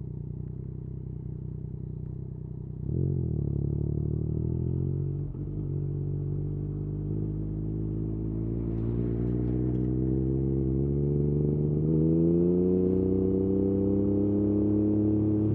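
Yamaha MT-09's inline three-cylinder engine through an Akrapovič exhaust, running steadily at low revs. About three seconds in the throttle opens and the note gets louder and climbs gradually, with a brief dip about five seconds in, then holds steady at higher revs near the end.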